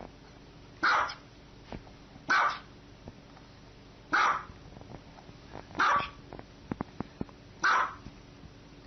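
A dog barking single sharp barks, five times, about every one and a half to two seconds.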